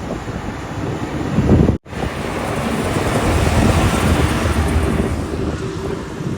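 Heavy diesel machinery engine running under load, with a brief dropout about two seconds in where the sound is cut, then a fuller, louder engine and working noise.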